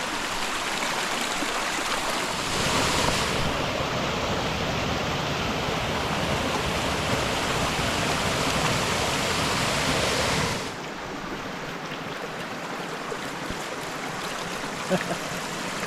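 Mountain creek water rushing in a steady, even wash. The sound grows louder and fuller about two and a half seconds in, then drops back abruptly about ten and a half seconds in.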